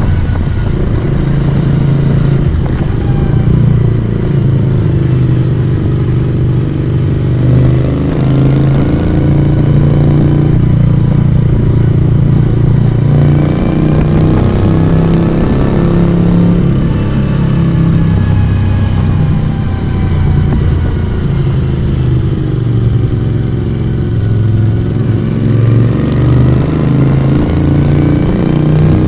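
Moto Guzzi V35's small air-cooled transverse V-twin running under way, its exhaust note rising and falling in pitch as the throttle is opened and eased through the bends.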